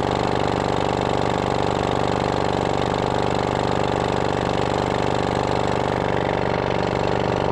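1924 Johnson Model B 2 HP two-stroke outboard motor running steadily at an even speed.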